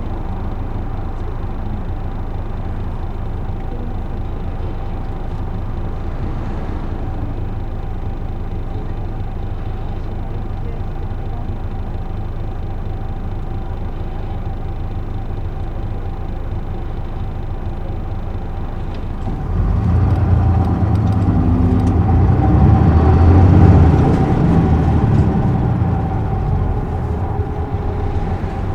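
Isuzu Erga city bus's diesel engine heard from inside the cabin, with a steady low rumble and a faint constant whine. About two-thirds of the way in, the engine pulls harder and grows louder for several seconds as the bus accelerates, then eases off.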